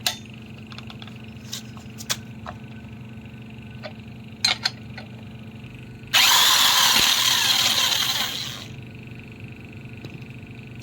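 A few light metallic tool clinks, then a loud burst of a power tool running for about two and a half seconds, starting abruptly about six seconds in and fading out, while work is done on a brush cutter clutch.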